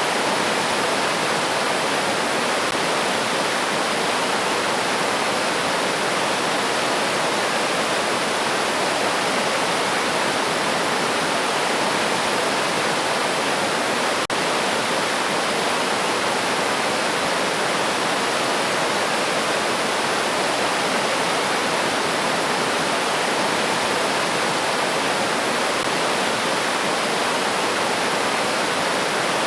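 River water rushing steadily, an even, unbroken wash of sound, with one faint click about halfway through.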